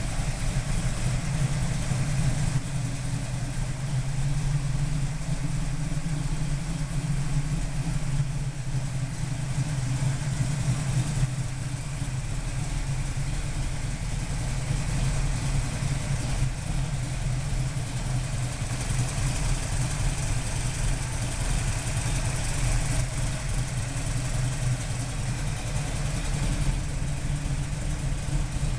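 1967 Chevrolet Camaro RS/SS's V8 engine idling steadily.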